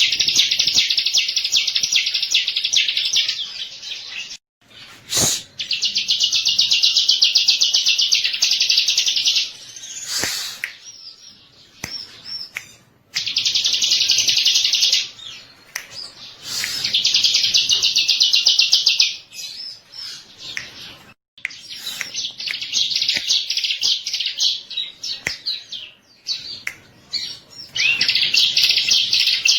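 Bar-winged prinia (ciblek) singing: repeated bouts of fast, buzzy, high trilling, each a few seconds long, broken by short pauses. Two sharp clicks fall between the early bouts.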